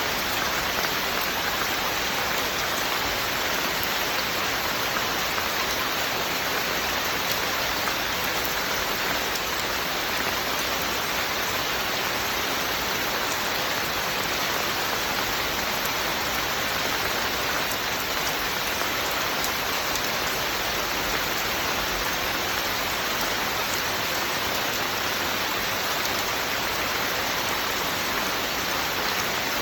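Steady rain falling and pattering on surfaces, an even hiss with no let-up or change.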